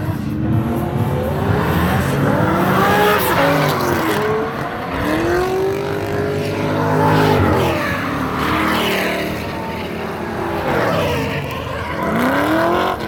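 Drift cars sliding past on track, engines revving hard with the pitch sweeping up and down as the throttle is worked, over tyre squeal. A final rise in engine pitch comes near the end.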